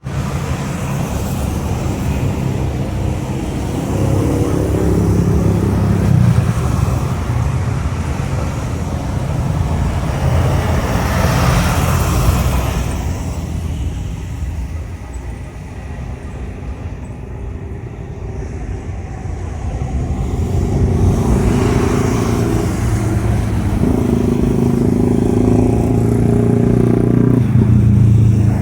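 Engine noise from passing road traffic, motorcycles among it, mixed with a jet airliner's engines as it takes off. The sound swells twice: once about 11 seconds in, and again near the end.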